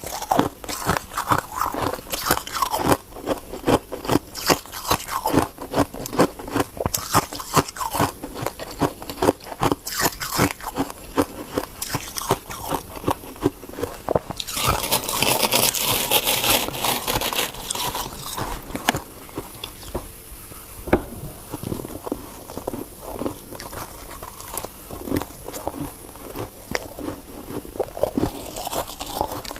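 Ice being bitten and crunched between the teeth close to the microphone: a quick run of sharp cracks and crunches. About halfway through comes a few seconds of denser, hissier crunching.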